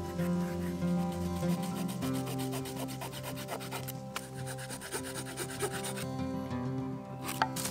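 Swiss Army knife's folding wood saw cutting through a green branch in quick back-and-forth strokes, the teeth rasping on the wood. Background music plays underneath, and there is a sharp click near the end.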